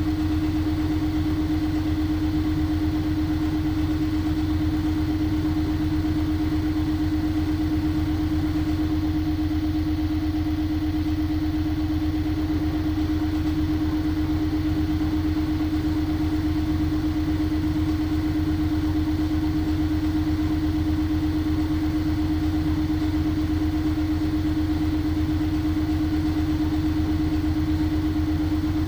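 LG washing machine running at a steady speed, its motor and drum giving one constant hum over a low rumble, as in a spin near the end of the cycle.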